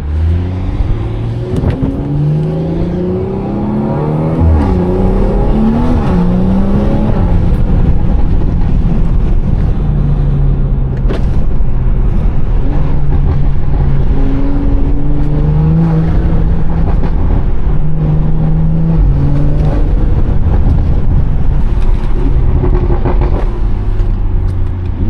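BMW 340i's turbocharged straight-six, fitted with a catless downpipe and valved exhaust, pulling hard through the gears. The engine note climbs and drops back in steps over and over as it shifts.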